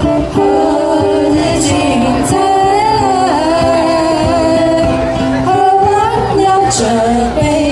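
Ukuleles strummed as accompaniment to voices singing a melody.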